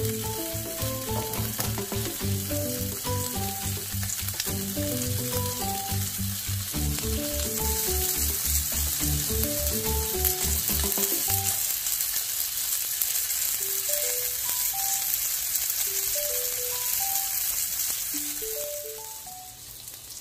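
Shrimp-and-beef dumplings sizzling in oil in a frying pan as the last of the steaming water cooks off and their bottoms turn golden, a sign they are done. The steady sizzle is strongest in the middle and fades near the end.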